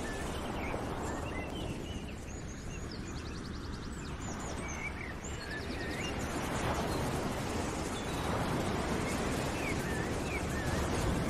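Birds chirping with short rising and falling calls and a few quick trills, over a steady rushing noise.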